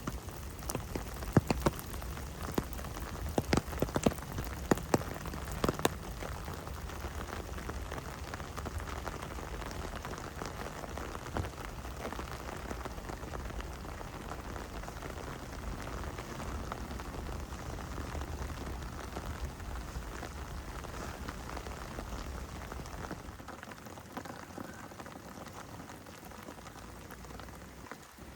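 Heavy rain falling steadily, with sharp, loud drop impacts for the first six seconds. A low rumble underneath drops away near the end.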